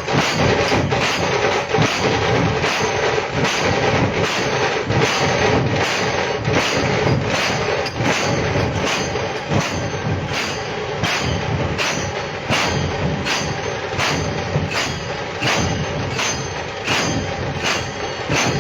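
Loud rhythmic percussion: sharp strikes at a steady beat of about two a second over a dense, noisy wash of drumming.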